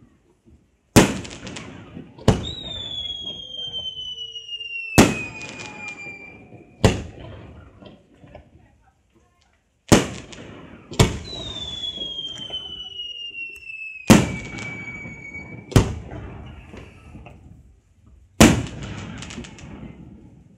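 Aerial fireworks display: about nine sharp shell bursts a second or two apart, each trailing off in a rumble. Two long whistles slide down in pitch over about four seconds each.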